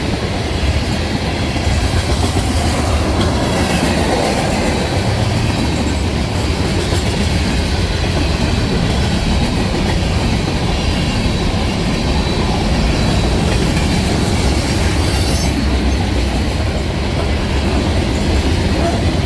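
Freight train cars rolling past over the crossing: a steady rumble of steel wheels on rail with clickety-clack over the joints. Brief high wheel squeals come a few seconds in and again later on.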